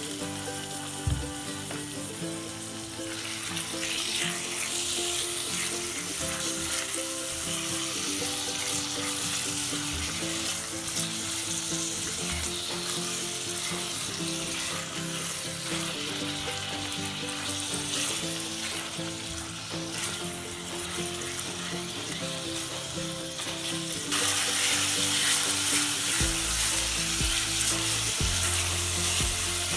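Beef chunks and onions sizzling in hot oil as they sear in a stainless steel saucepan, stirred and turned with a silicone spatula. The sizzling gets louder about three-quarters of the way through.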